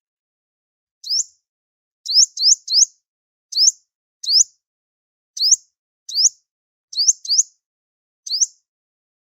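A sunbird calling: about a dozen short, high chirps, each sweeping upward, some single and some in quick runs of two or three, with silent gaps between them. It is a call recording of the kind played as a lure for trapping sunbirds.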